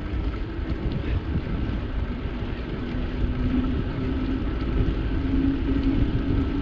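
Bicycle riding noise: wind rushing over the microphone and tyres rolling, with a low steady hum that grows stronger about halfway through.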